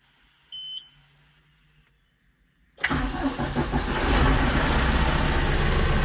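A short electronic beep, then about three seconds in a John Deere 5M tractor's diesel engine cranks and starts, running steadily after it catches.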